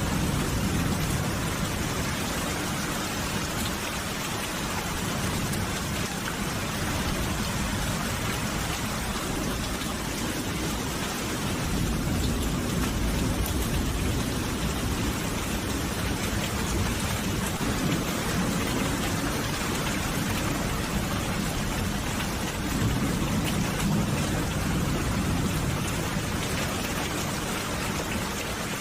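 Steady rain falling, with a low rumble that swells and fades now and then underneath.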